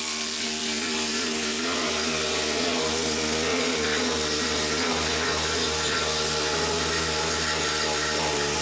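A motor-driven machine running steadily, a constant hum with hiss and no breaks.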